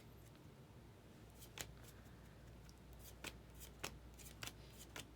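Faint, scattered soft clicks and flicks of baseball trading cards being handled and flipped through one by one.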